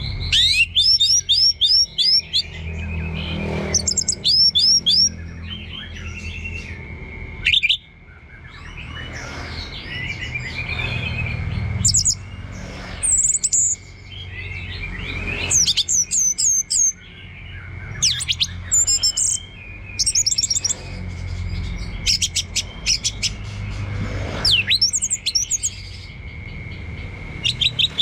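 Orange-headed thrush singing in loud, quick bursts of varied high whistled and chattering phrases, each a rapid run of repeated notes, with short gaps between. A thin steady high tone runs beneath the song.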